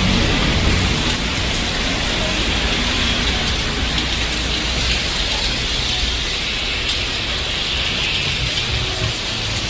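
Heavy rain pouring steadily, a dense even hiss of raindrops on wet surfaces.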